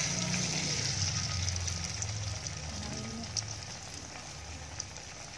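Battered tempeh (tempe mendoan) deep-frying in hot oil in a wok: a steady sizzle, loudest at the start and slowly dying down.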